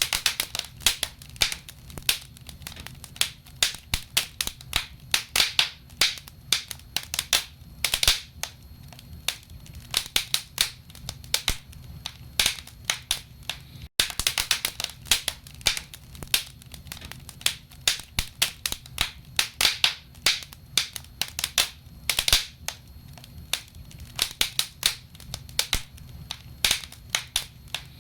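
Wood logs burning in a fireplace, crackling with many irregular sharp pops and snaps over a low steady rumble.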